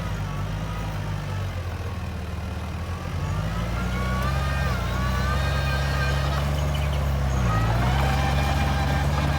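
Bulldozer diesel engine working under load, its pitch dropping and then climbing again, with a high whine rising and falling along with it. It grows louder about three seconds in and dips briefly again near the end.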